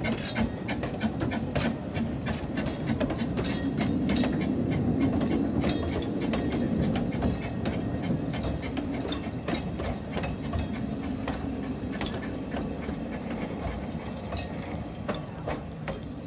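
Narrow-gauge train running along the track: a steady rumble with frequent sharp clicks and clacks of wheels over the rails, easing off a little toward the end.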